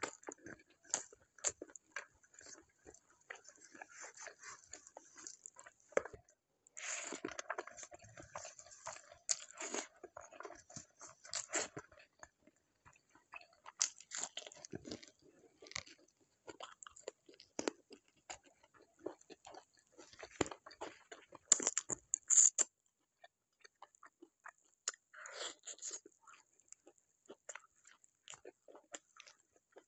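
Close-up eating sounds: irregular crunching, biting and chewing of food, busier between about seven and twelve seconds in.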